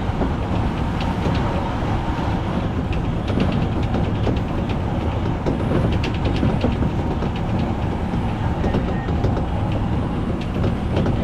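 Odakyu electric commuter train running along the track, a steady rumble of running noise with many sharp clicks from the wheels passing over rail joints.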